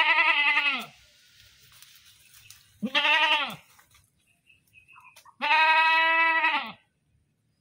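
Goat bleating loudly in a series of separate calls, each with a wavering, arching pitch. The third call, about five and a half seconds in, is the longest at over a second, and another bleat begins right at the end.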